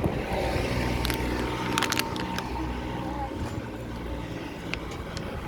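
A motor vehicle's engine rumbling as it passes on the road, strongest for the first three seconds and then fading.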